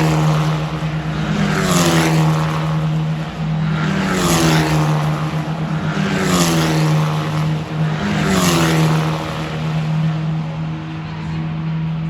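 Racing car engines at high revs going past one after another, the pitch dropping sharply as each passes, four times about two seconds apart.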